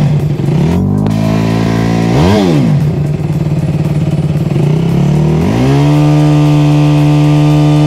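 Bajaj Pulsar NS200's single-cylinder engine, its carburettor freshly cleaned, running at idle with one quick throttle blip about two seconds in. About five and a half seconds in it is revved up and held at a higher, steady speed.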